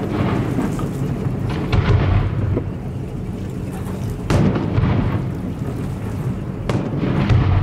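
Fireworks shells bursting in a string of booms, about four or five in all, over a continuous low rumble.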